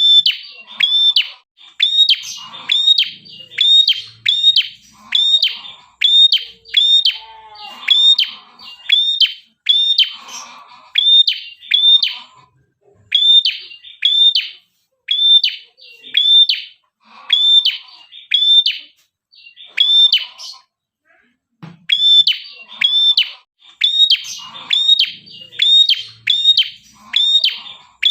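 A prinia ('prenjak kepala merah') calling insistently: a long run of sharp, arching chirps at about two a second, breaking off briefly twice, with softer, lower twittering between the notes.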